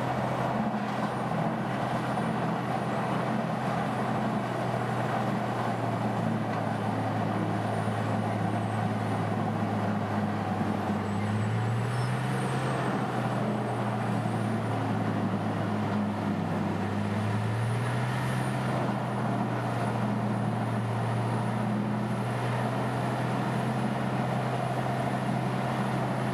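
Diesel engine of a Bandit horizontal wood grinder running steadily under way, with the hiss and rumble of the machine at work. Its pitch steps up slightly a little before halfway and again a few seconds later.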